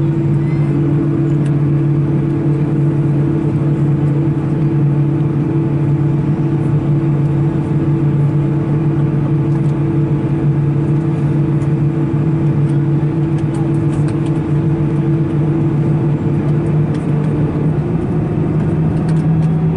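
Cabin noise of an Airbus A319 just after landing, its CFM56 engines running slowly: a steady drone over a rumble, the pitch of the hum shifting slightly near the end.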